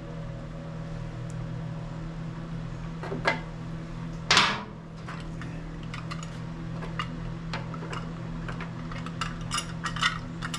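Hand tools and metal engine parts clinking and tapping as a compression gauge is moved to the engine's other cylinder, over a steady low hum. A short loud rush of noise about four seconds in, and the clinking grows busier near the end.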